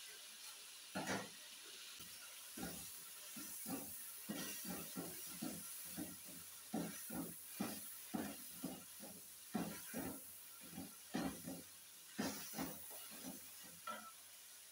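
Mutton and spice masala sizzling as it is fried in an aluminium pot, with a steady hiss. A wooden spoon stirs it, scraping and knocking against the pot about twice a second.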